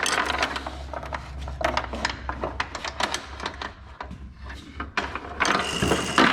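Chain hoist being worked by hand to lift a push mower, its chain and ratchet giving a fast, uneven run of clicks and rattles.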